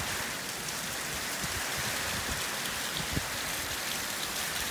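Heavy rain falling steadily on waterlogged ground, with a few soft low thuds.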